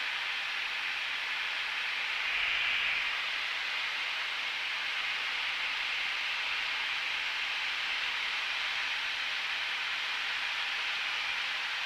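Steady, even hiss of a Cessna 172's cockpit in flight, with no distinct engine tone standing out; it swells briefly about two and a half seconds in.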